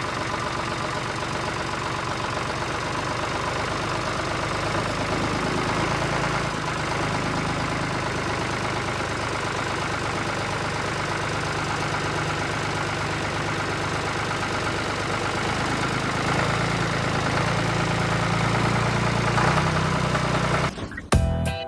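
A vehicle engine idling steadily with an even low chug, growing a little louder and heavier about three-quarters of the way in, like a truck or tractor engine. Music with sharp beats cuts in just before the end.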